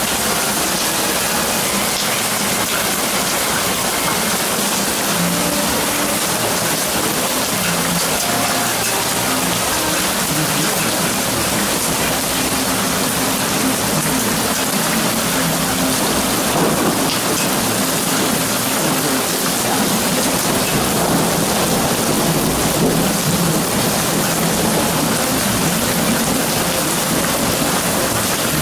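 Heavy rain falling steadily, a loud, dense hiss of drops that swells a little partway through.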